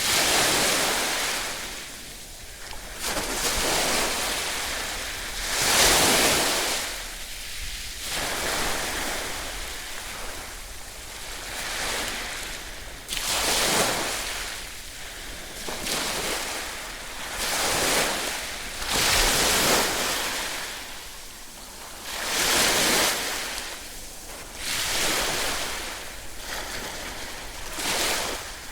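Ocean waves breaking and washing up on a shore, one surge of surf after another every two to three seconds, each swelling and then fading out.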